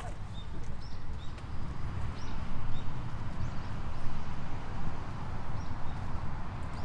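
Steady rushing of water that swells and eases, with small birds chirping briefly now and then at a high pitch.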